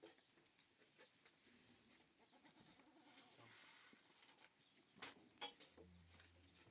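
Faint goat bleating in the background, with a few sharp clicks about five seconds in.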